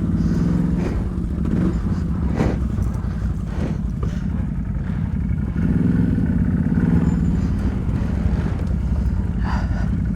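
ATV engine running on a trail ride, getting louder twice as the throttle opens, with a few sharp knocks and clatters from the machine.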